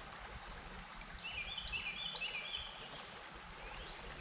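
Steady outdoor background hiss, with a bird singing a short run of high repeated notes from about one to three seconds in.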